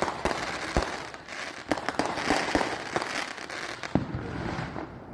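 Fireworks going off: irregular sharp bangs mixed with crackling, several bangs a second at times.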